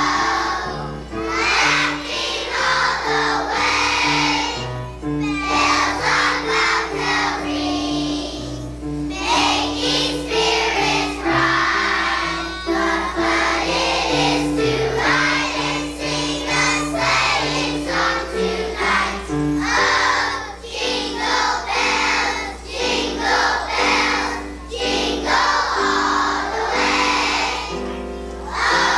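A kindergarten children's choir singing a song in unison over an instrumental accompaniment that moves note by note.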